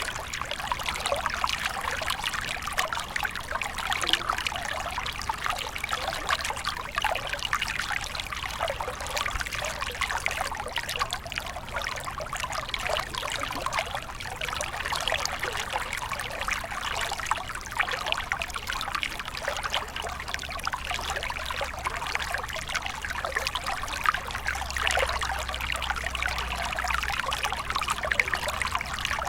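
Small stream of water flowing and trickling steadily, a continuous bubbling splash.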